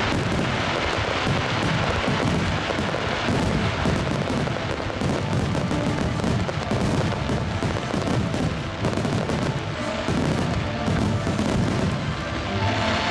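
Large aerial fireworks bursting in rapid succession, a dense run of booms and crackle with no pause. Music from the show's loudspeakers plays underneath.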